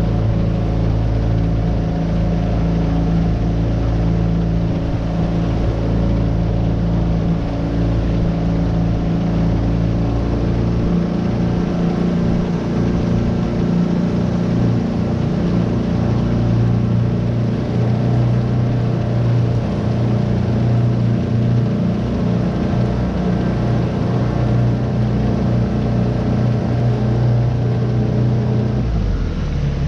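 Tohatsu 9.8 hp four-stroke outboard motor running steadily under way. Its pitch shifts about ten seconds in and drops slightly near the end.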